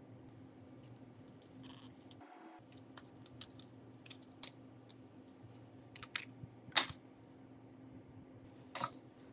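Small metal tools and phone parts clicking and tapping on a workbench during a phone teardown: a few sharp clicks, the loudest about seven seconds in, over a steady low electrical hum.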